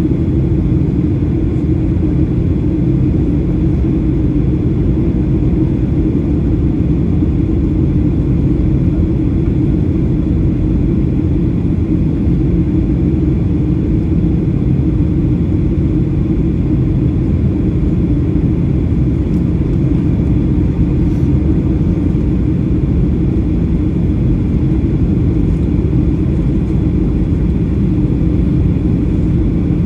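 Steady cabin drone of a Boeing 737-800 in flight, heard from a rear window seat: a low rumble of its CFM56 engines and the airflow over the fuselage, with a steady low hum and no change in level.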